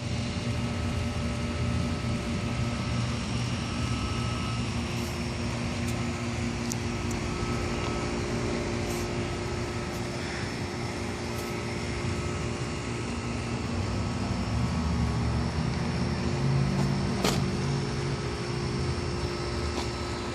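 A steady mechanical hum with a low rumble and a few faint clicks, swelling slightly a little past the middle.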